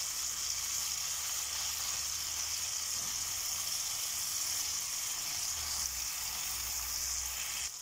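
Long green peppers and tomato slices frying in oil in a pan, with a steady high sizzle.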